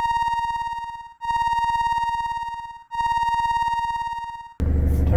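An electronic tone sounds three times at the same high pitch, each note long and fading away. It is a synthesized sound effect rather than anything in the scene.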